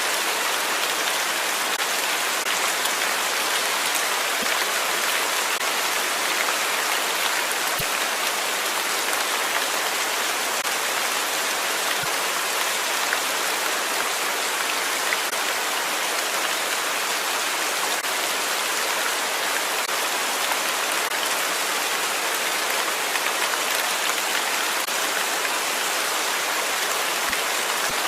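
Steady rain falling and pattering on surfaces, an even hiss with scattered individual drops.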